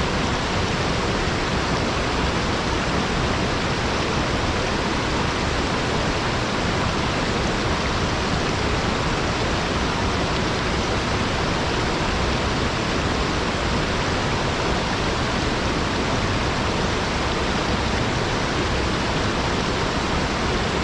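Small waterfall spilling down a rock wall: a steady, unbroken rush of falling water.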